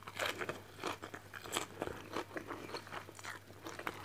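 A person chewing crunchy food with the mouth close to the microphone: a string of small, crisp crunches that keeps going.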